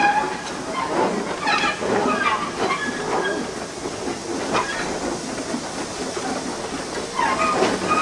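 Steam locomotive running, with a steady hiss of steam.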